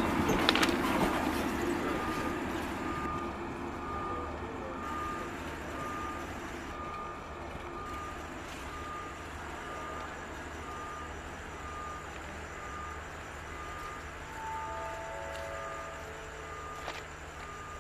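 Eastern and Oriental Express passenger train rolling away over the rails, its rumble fading over the first few seconds. A short electronic beep repeats evenly throughout, and a few lower tones sound near the end.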